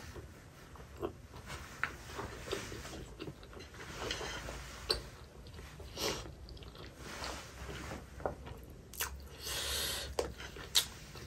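Close-miked chewing of a steamed chicken dumpling (momo): soft, wet mouth smacks and clicks at irregular intervals.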